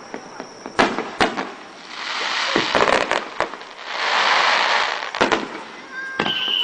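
Aerial fireworks going off: a string of sharp bangs with long swells of hiss between them, and a whistling shell starting near the end.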